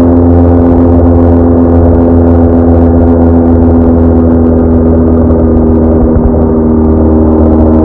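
BMW R1200R boxer-twin motorcycle engine running at a steady speed, a constant hum of even tones.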